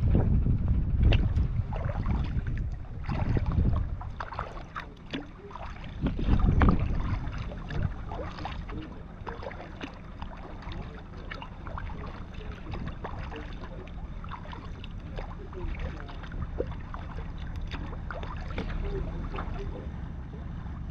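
Water splashing and lapping against a kayak's hull, with many small irregular splashes. Wind buffets the microphone for the first few seconds and again about six seconds in.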